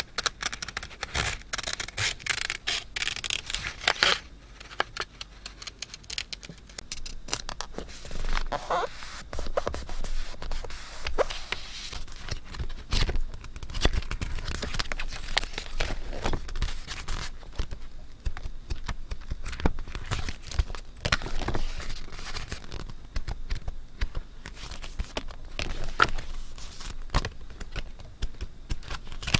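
Paper being handled for scrapbooking: a continuous run of rustling and scraping, broken by many small clicks and taps.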